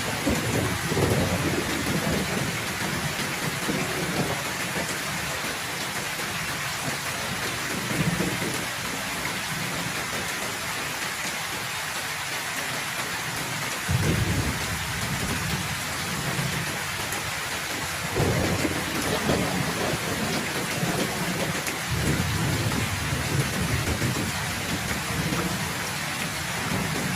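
Heavy rain falling steadily, with rolls of low thunder rumbling several times, the strongest about halfway through and again a few seconds later.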